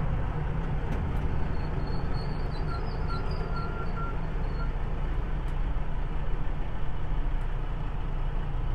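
Audi TT race car's 2.0 TDI diesel engine and road noise heard from inside the cabin: a steady low drone at an even pace, with no revving up or down.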